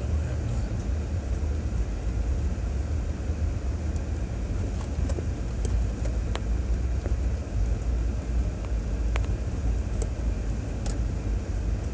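2006 Chevrolet Trailblazer SUV driving on a rough dirt trail: a steady low rumble of engine and tyres, with scattered sharp clicks and knocks.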